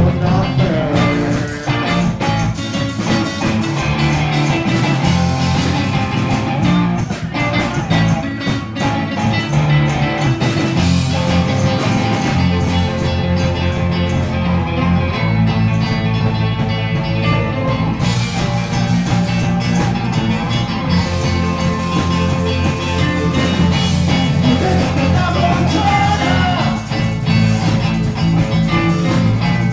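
Live band playing a rock song, guitar to the fore.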